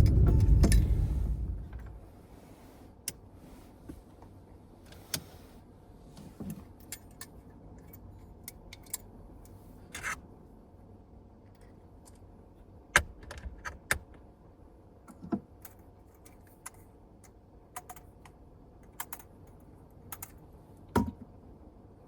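Background music fading out in the first two seconds, then a quiet stretch with scattered small clicks and taps of hard objects, irregularly spaced, the sharpest about halfway through and near the end.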